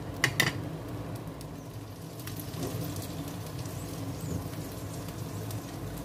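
Egg, corn and cabbage omelette frying in oil in a pan on a gas burner: a steady sizzle, with two quick sharp clicks about half a second in.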